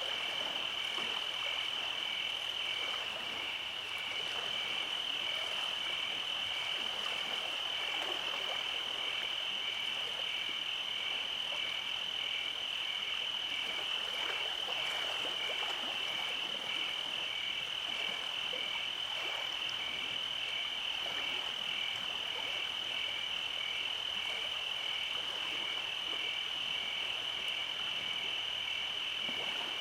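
Summer night chorus of insects and frogs: a continuous high trill with a regular pulsing call about one and a half times a second over it.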